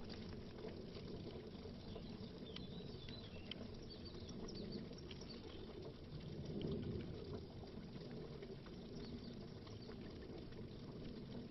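Faint underwater bubbling: a low watery gurgle with scattered small bubble pops, swelling slightly about six to seven seconds in.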